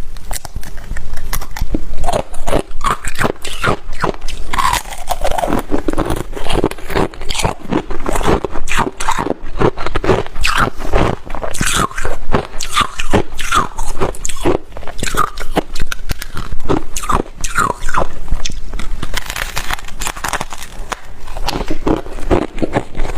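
Close-miked biting and chewing of frost ice needles from a humidifier: a dense, continuous run of crisp crunches.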